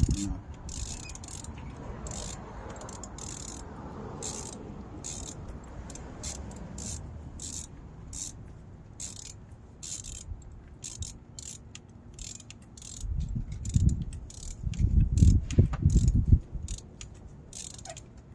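Ratchet wrench clicking in uneven runs while a spark plug is tightened, with heavier clunks of the tool a little past the middle. The plug had worked loose, which the owner thinks caused the cylinder misfire.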